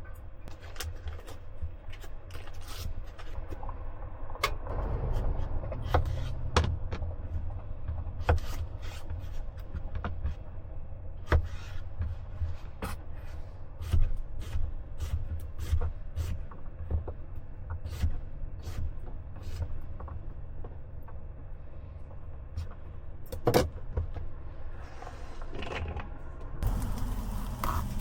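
Scattered clicks, taps and knocks of small objects being handled, over a steady low rumble.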